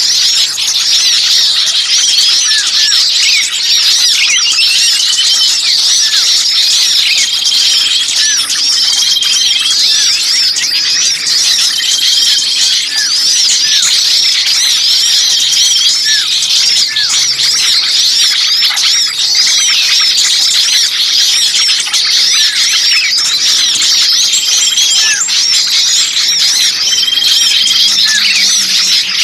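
Bird-lure recording of many small songbirds chattering and chirping noisily at once, a dense, busy chorus of high twittering. A short level whistle recurs every two to three seconds beneath the chatter.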